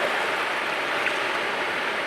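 Sea surf washing on the shore, a steady rush of water with a brief faint tick about a second in.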